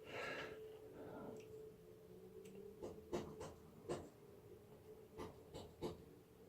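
Faint, scattered light clicks and taps of hands and tools working the gear selector shaft and its return spring on a Triumph Tiger 800 engine, half a dozen or so spread over several seconds.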